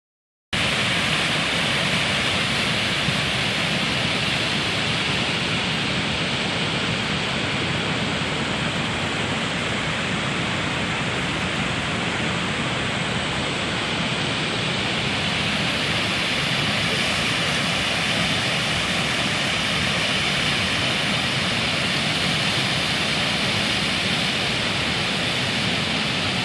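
Floodwater rushing over a dam: a steady, unbroken rush of water that starts about half a second in.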